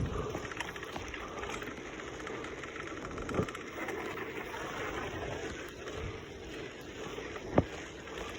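Steady rushing wind and road noise while riding a bicycle, with a brief knock about three and a half seconds in and a sharp click near the end.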